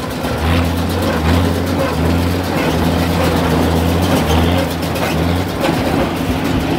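Oliver 770 tractor engine running steadily under load in first gear, pulling a working John Deere baler; the engine note swells and eases every second or so as the governor holds it against the load.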